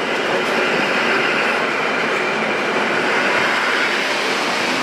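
ED72 electric multiple unit rolling into the platform and passing close by, a steady noise of wheels on rails.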